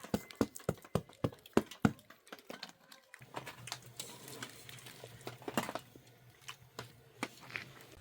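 A quick series of sharp knocks, about three a second, for the first two seconds. Then a low steady hum comes in, with scattered clicks and taps over it.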